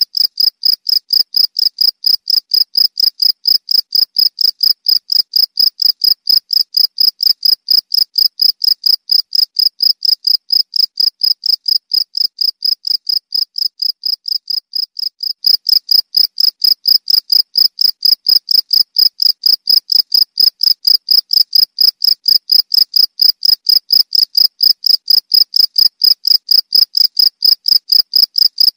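Cricket chirping: a high-pitched, evenly repeated chirp at about three chirps a second. It dips a little in loudness, then comes back louder about halfway through.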